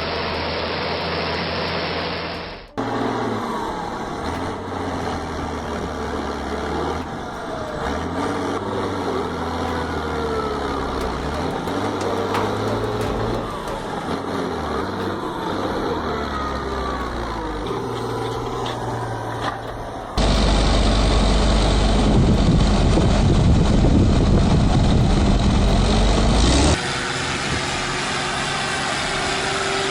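Heavy farm machinery engines running and revving under load, heard in several short clips one after another. The pitch rises and falls with the throttle. The loudest stretch is a deep, heavy rumble about two-thirds of the way through.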